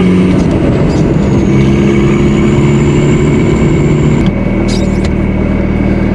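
A Volkswagen 1.6-litre turbodiesel engine running under way, heard from inside the car, its note shifting in pitch with a thin high whine over it. About four seconds in, the whine cuts off and the engine settles to a steady lower note.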